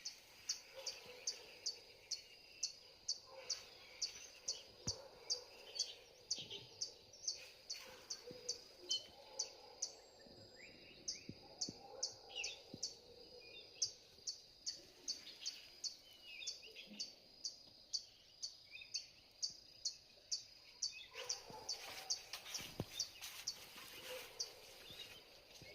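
Birds chirping: a short high chirp repeating evenly, about two to three times a second, over a steady high ringing, with other bird calls now and then.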